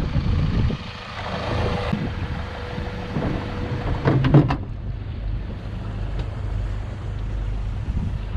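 A 150-horsepower Honda four-stroke outboard engine is started after a fresh oil change. There is a loud burst about four seconds in, then the engine runs with a steady low rumble.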